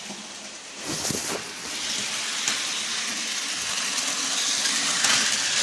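Bachmann HO scale model locomotive running on its track: a steady rushing whir of its small motor and wheels, which grows louder a little over a second in as the train is sped up.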